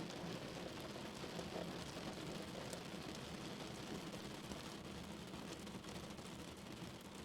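Rain falling on a car, heard from inside the cabin: a steady hiss with a low rumble beneath and a few scattered drop taps.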